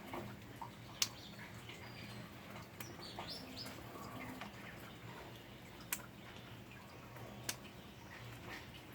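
Faint bird chirps over the patter of rain, with scattered sharp water-drop clicks, the loudest about a second in.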